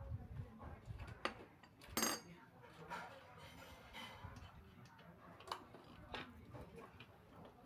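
Scattered metallic clinks and taps of hand tools and bicycle parts being handled during repair work, one sharper ringing clink about two seconds in.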